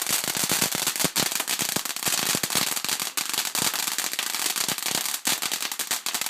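Gold crackle firework going off: a loud, continuous stream of rapid small pops and crackles.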